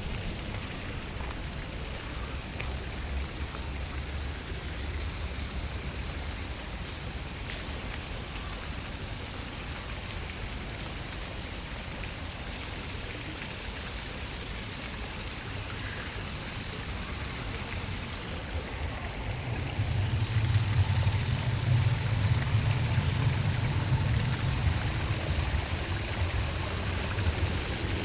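Steady rushing of running water, with a low rumble underneath that grows louder about two-thirds of the way in.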